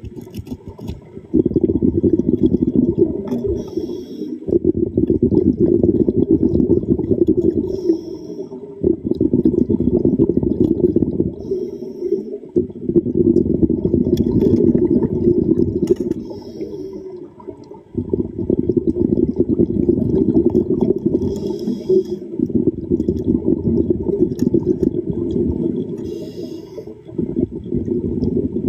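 Muffled underwater water noise: a steady low rushing that dips briefly every few seconds, with short faint higher hisses coming back every few seconds.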